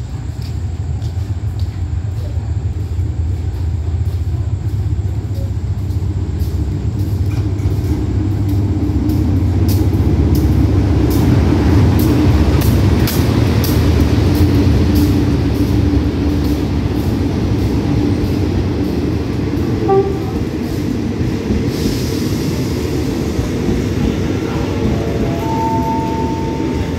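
State Railway of Thailand diesel locomotive hauling a passenger train into the station: a heavy engine rumble that swells as the locomotive draws alongside, about halfway through, with a run of clicks from the wheels over the rails. The rumble then eases as the coaches roll by and slow to a stop.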